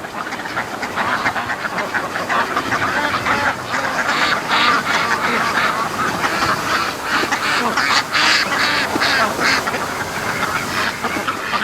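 A flock of domestic ducks quacking, many short calls overlapping in a continuous busy chorus that is busiest in the middle.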